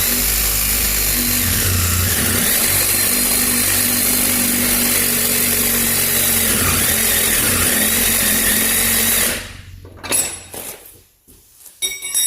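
A handheld power tool running steadily for about nine seconds, then stopping, followed by two short bursts near the end.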